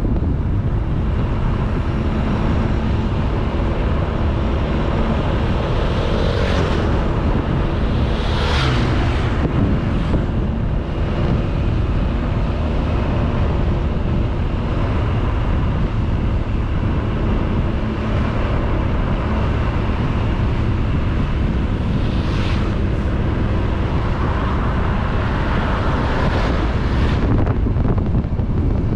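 Honda Beat 110cc single-cylinder scooter engine running steadily at cruising speed, under heavy wind noise on the camera microphone. Several brief whooshes rise and fall over it.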